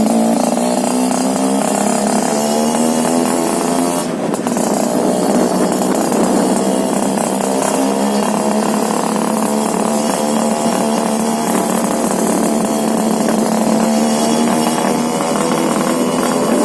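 Suzuki RGR 150's single-cylinder two-stroke engine running through an under-side aftermarket expansion-chamber exhaust. The revs rise and fall, with a short drop and a click about four seconds in.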